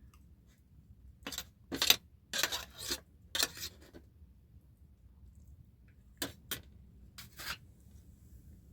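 A handful of short, sharp scrapes or rustles in two groups: several close together in the first half, then three more after a pause.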